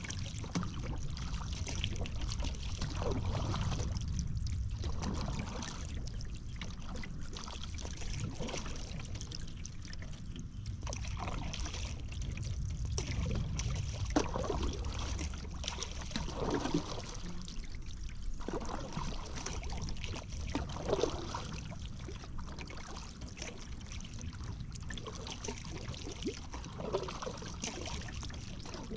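Paddle strokes in the river, water splashing and trickling off the paddle blade in an irregular rhythm, over a low steady rumble.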